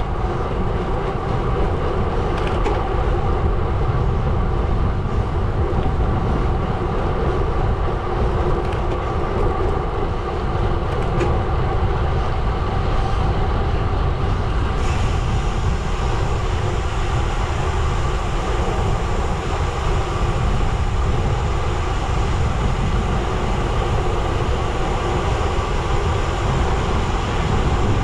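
Gravel bike tyres rolling over a gravel road: a steady, continuous crunching rumble, with wind on the microphone.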